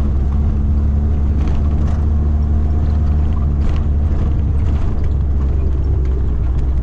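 Vehicle running: a steady low rumble of engine and road noise heard from inside the cabin, with a few faint ticks.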